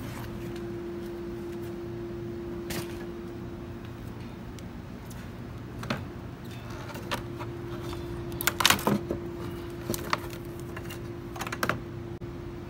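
Scattered small clicks and clatters of tools and parts being handled, over a steady low hum; a quick cluster of louder clacks comes about two-thirds of the way in.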